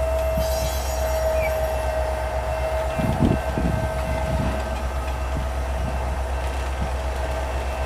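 Freight train's center beam flat cars, loaded with lumber, rolling slowly past with a low rumble and a steady high wheel squeal. A few heavy knocks come from the wheels on the rails about three seconds in.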